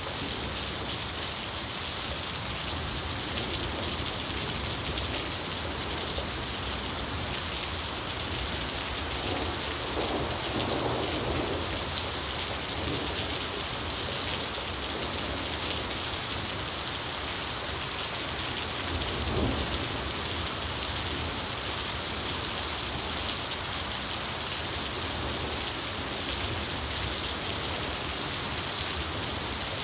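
Steady rain falling, with thunder rumbling low twice: around ten seconds in, and again just before twenty seconds.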